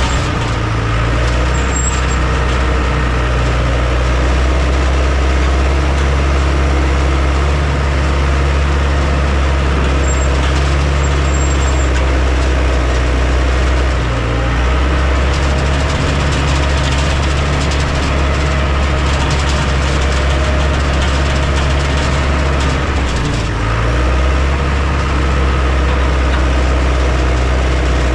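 Heavy diesel engine of earth-moving machinery running steadily, with a low drone and two short dips in the engine note, about halfway through and again near the end.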